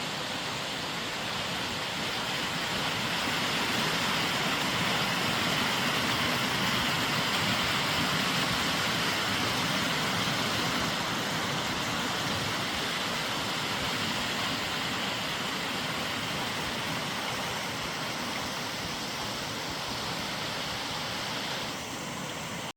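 Steady rush of flowing water, rising for the first few seconds and then slowly fading.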